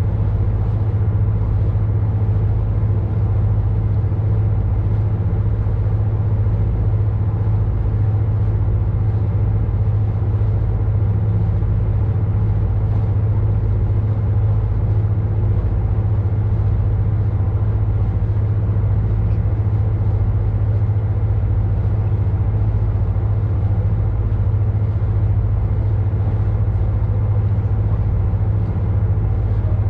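Ship's engine running steadily: a constant low hum with even overtones that does not change.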